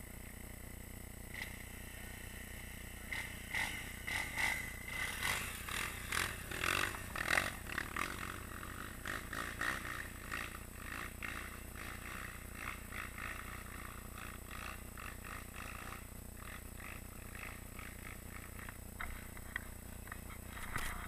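Dirt bike engine running slowly and muffled, a steady low hum, with a run of irregular scraping and clattering noises from about three to ten seconds in.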